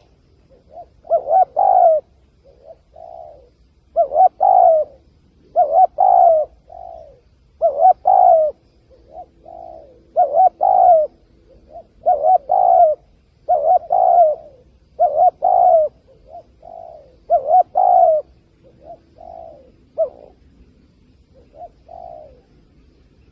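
Spotted dove cooing over and over, loud paired coos about every two seconds with softer notes between; the last few calls are softer.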